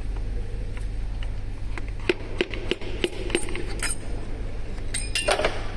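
Metal engine parts clinking and tapping against each other in a series of sharp, ringing knocks, bunched from about two seconds in and again near the end, over a steady low hum.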